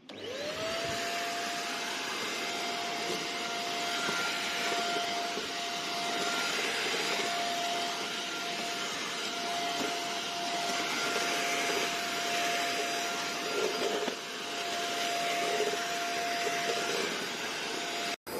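Deerma DX700S handheld cyclone vacuum cleaner switched on: its motor spins up within half a second to a steady high whine over a loud rush of air. It keeps running until a brief cut-out near the end.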